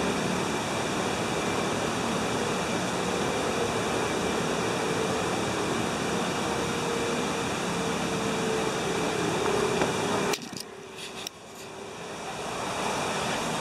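Steady rush of running water from an artificial waterfall and stream on a mini golf course. It drops away suddenly about ten seconds in, then builds back up.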